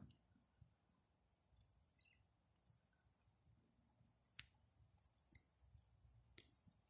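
Faint crackling of a wood campfire: sparse small pops and ticks, with three sharper cracks about a second apart in the second half.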